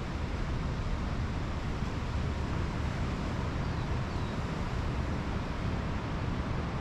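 Pacific Ocean surf washing on a sandy beach, a steady rushing hiss, with wind rumbling on the microphone.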